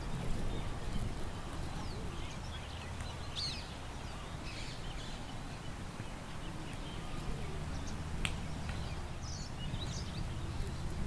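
Small birds chirping in short, scattered calls over a steady low background rumble, with one sharp click about eight seconds in.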